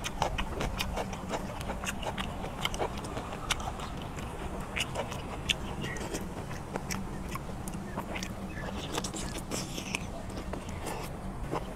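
Chewing squid close to a clip-on microphone: mouth sounds with many short clicks throughout, over a steady low hum.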